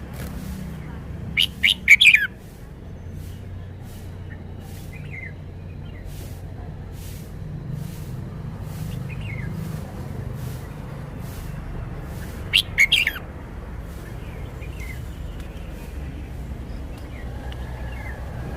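Red-whiskered bulbul singing: two short, loud phrases of quick notes about eleven seconds apart, with a few faint chirps between them, over a steady low rumble.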